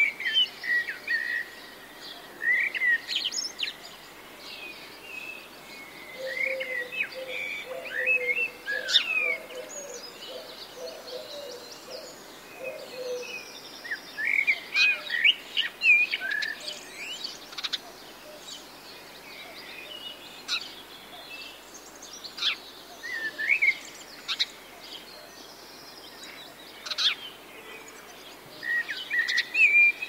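Birds chirping and calling in short bursts of quick, sharp, sweeping notes every few seconds. A lower warbling call runs underneath for several seconds in the middle.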